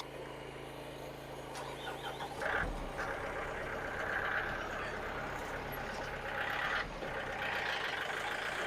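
Small gasoline engine of a Frontier OS27 band sawmill running steadily. About two and a half seconds in its sound changes and turns louder and noisier.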